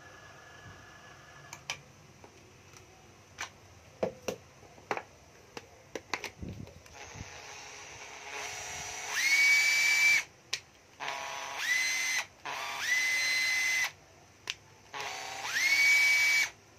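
Cordless drill being handled with a few clicks, then its motor run four times on the trigger: each run winds up in pitch to a steady high whine and stops abruptly, the first after a slow speed-up.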